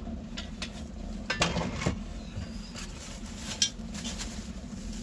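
Metal bench-drill parts being handled out of the box, clinking and knocking against each other a few times, the sharpest knock about three and a half seconds in, over a steady low hum.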